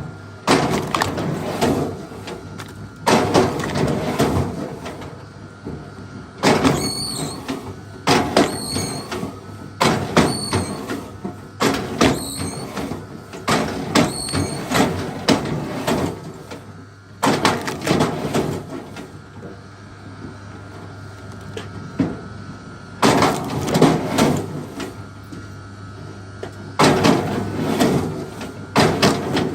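Axe chopping into a large log or stump: sharp strokes about every two seconds, each ringing down briefly. Several strokes in the middle come with a short high squeak.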